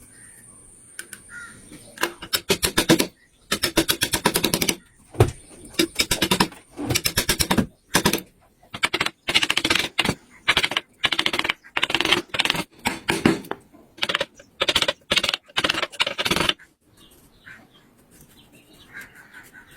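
Rapid rattling strikes of a wood-carving tool on wood, coming in a dozen or so bursts of about a second each, with short pauses between them, and stopping a few seconds before the end.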